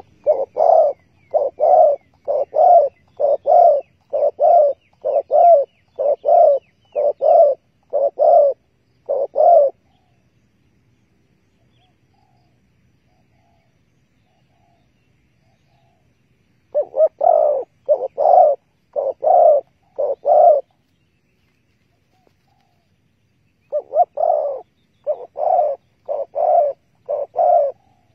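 Spotted dove cooing: short, low coos about one a second, in a run of around ten, then a pause of several seconds, then two more runs. Faint high chirps from a smaller bird sit over the first run.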